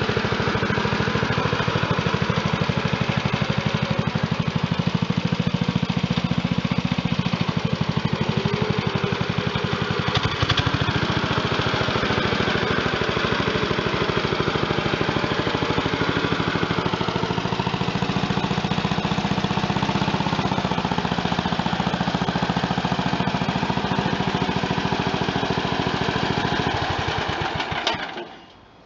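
Wisconsin 7 hp single-cylinder air-cooled engine of a Bush Hog V4-7 garden tractor running steadily with an even firing beat, then dying away as it is shut off near the end.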